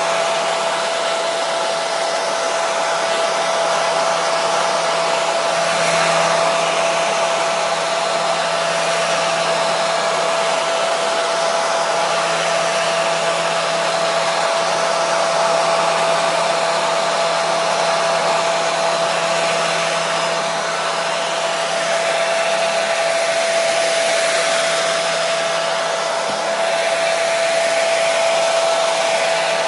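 Hair dryer running continuously at a steady speed: a loud, even rush of blown air with a steady motor hum underneath.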